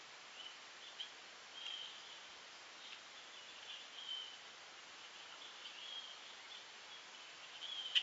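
Faint, scattered short bird chirps over a steady hiss, with a sharp click at the very end.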